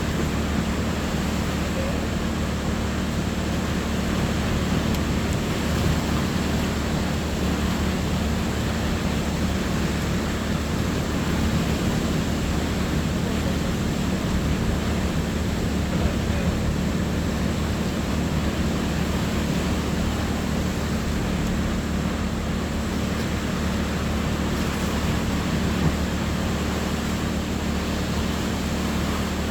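A steady engine drone with a low hum under an even rushing noise, holding level throughout.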